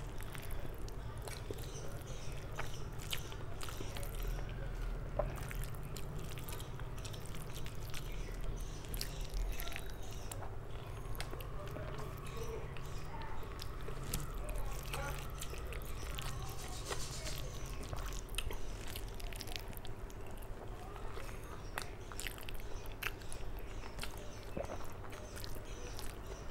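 A person eating rice and curry by hand at close range: moist chewing and lip-smacking with many small wet clicks, over a steady low background hum.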